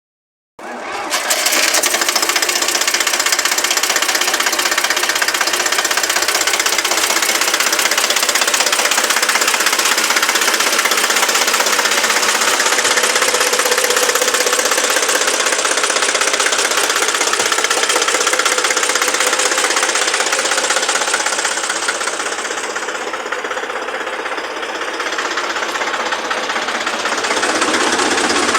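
Deutz 50 tractor's diesel engine running steadily, with a short stretch slightly quieter near the end.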